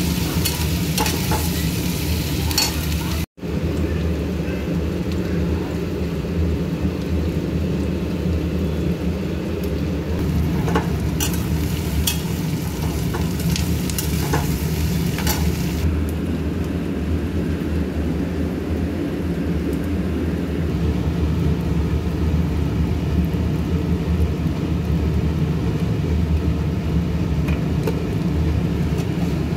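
Sliced onions sizzling in oil in a steel kadhai, with a steel spatula scraping and stirring them against the pan in scattered clicks, most of them in the first half. A steady low rumble runs underneath, and the sound cuts out for an instant about three seconds in.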